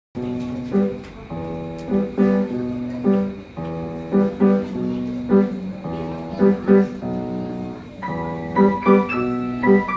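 Piano music played by two performers: held chords with strong accented chords about once a second, and a higher melody coming in near the end.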